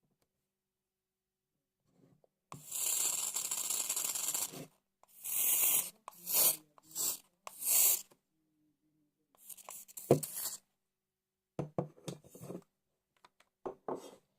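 Aerosol deodorant spraying: one hiss of about two seconds, then four short spray bursts. Short crackles and clicks follow in the second half.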